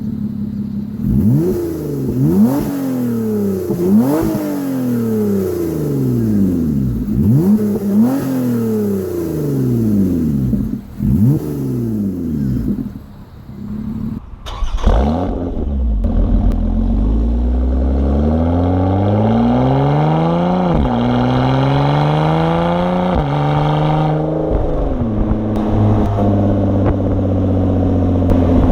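Lotus Evora's Toyota-sourced 3.5-litre V6 and its exhaust being revved: a string of quick throttle blips, each rising sharply and falling away, about every second and a half for the first dozen seconds. After a short break, a slower climb in revs peaks and drops back, then the engine runs steadily.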